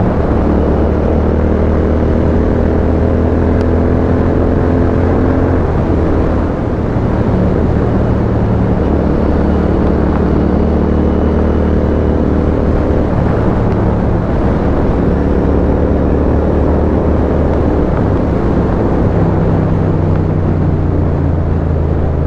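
Royal Enfield Continental GT 650's 648 cc parallel-twin engine running through a custom aftermarket exhaust while riding. The engine note climbs slowly for the first few seconds, drops about six seconds in, then holds fairly steady, with small shifts in pitch later on.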